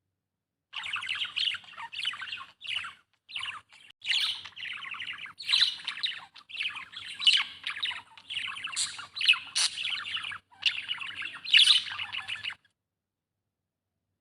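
Budgerigar chirping in a fast, continuous chatter of short high chirps and squawks. It starts about a second in and cuts off suddenly near the end.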